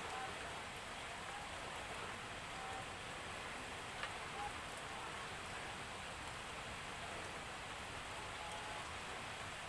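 Steady rain falling, an even hiss, with a single faint tick about four seconds in.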